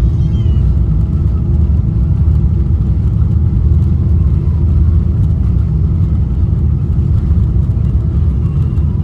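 Steady, loud low rumble of a Boeing 777-300's jet engines and rushing air, heard inside the cabin during the climb after takeoff, with a faint steady hum above it.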